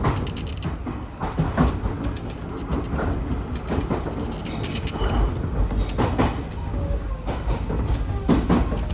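Odakyu 1000-series electric train running on the line, with a steady low rumble and irregular clacks and knocks from the wheels on the track.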